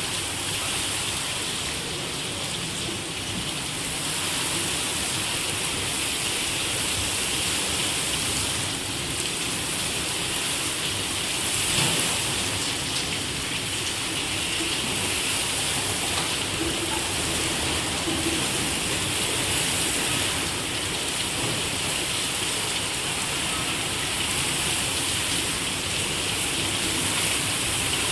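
Heavy rain falling steadily, a continuous hiss of rain on surfaces.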